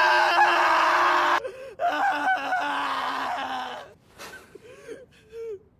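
A young man's voice screaming in anguish: one long held cry, then a second wavering cry, then quieter gasping sobs near the end.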